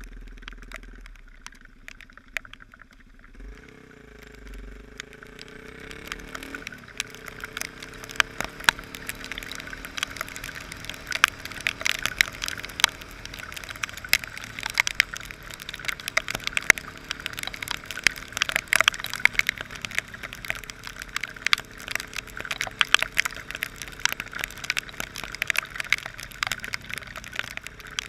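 Heavy rain pelting the camera in thick, sharp drops, growing dense about seven seconds in, over a motorcycle engine running underneath whose pitch rises and falls early on.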